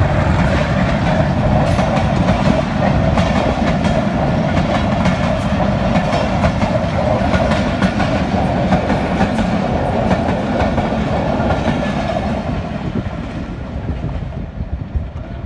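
Passenger coaches of an express train rolling past close by, their wheels clicking rhythmically over the rail joints. The sound fades after about twelve seconds as the train draws away.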